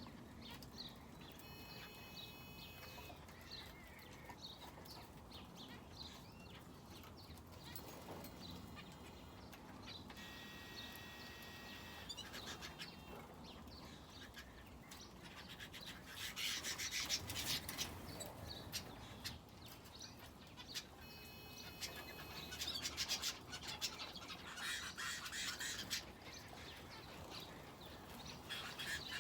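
Small aviary birds, finches and a canary, chirping and calling with short, nasal-sounding call notes. The chirping gets busier and louder about halfway through and again later on.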